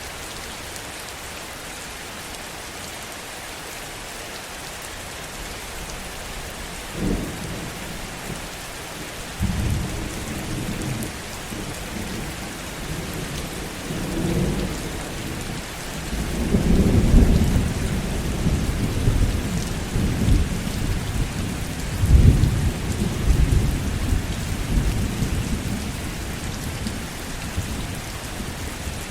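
Heavy rain falling steadily, with rolls of thunder rumbling in from about a quarter of the way through. The thunder comes in several swells, and the loudest peals come just past halfway and again about three quarters through before it dies back to rain alone.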